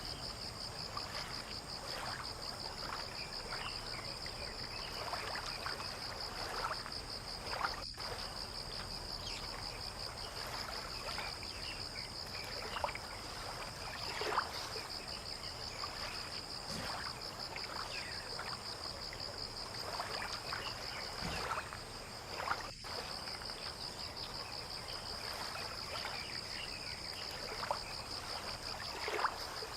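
Insects chirring in a steady high pulsing drone, over soft irregular laps and splashes of water.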